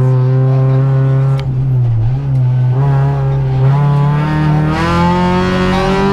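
Peugeot 206 RC rally car's 2.0-litre four-cylinder engine, heard from inside the cabin, running hard at high revs on a stage. Its pitch holds steady, dips briefly about two seconds in, then climbs as the car accelerates.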